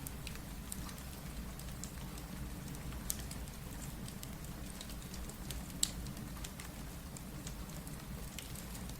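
Steady rain with a low rumble, mixed with a crackling wood fire that gives scattered sharp pops, the loudest about three and six seconds in.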